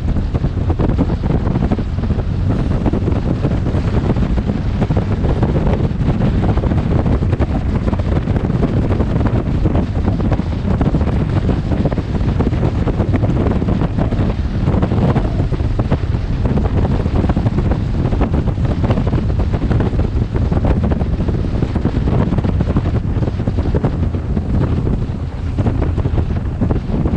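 Wind buffeting a helmet-mounted camera's microphone on a moving motorcycle: a loud, steady rush that is heaviest in the low end.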